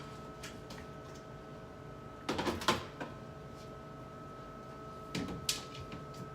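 Items being set down and shifted on refrigerator shelves: two short bursts of clattering knocks, a little over two seconds in and again a little after five seconds, over a steady hum.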